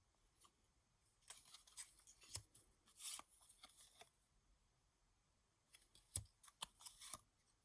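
Cardstock paper ephemera pieces being handled: soft rustling and light ticks of card on card, in two short spells.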